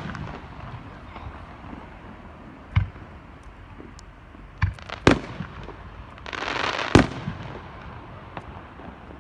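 Aerial fireworks shells bursting in separate bangs: one about three seconds in, two close together around five seconds, and the loudest near seven seconds, just after about a second of hissing crackle.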